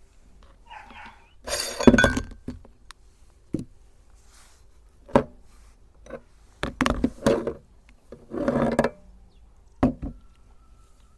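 Mini ice cream cones crunching in a meat grinder: a string of about six separate crunches and clinks, the loudest about two seconds in.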